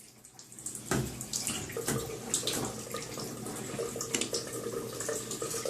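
Wet squishing, small splashes and drips as flea-and-tick shampoo is applied and worked into a wet boxer dog's coat in a bathtub, with many scattered small clicks.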